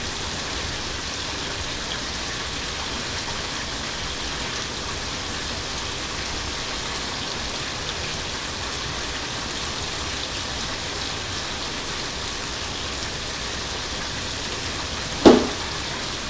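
Chicken frying in hot oil, a steady sizzle throughout, with a single short knock about 15 seconds in.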